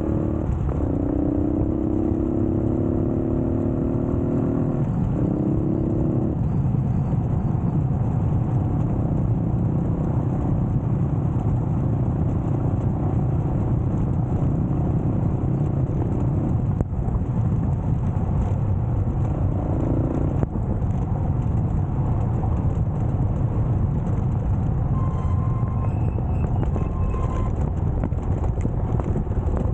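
Yamaha motorcycle engine accelerating hard off-road, its pitch climbing through the first six seconds with a gear change between, then running at steady speed under a constant rumble of wind and tyres.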